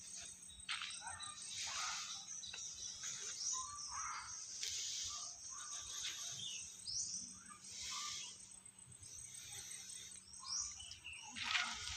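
Birds chirping and calling in woodland, many short high notes including quick downward-sliding calls.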